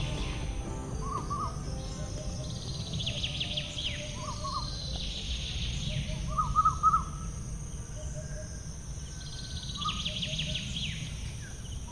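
Birds chirping in short repeated phrases, a call every second or two, over a low steady rumble.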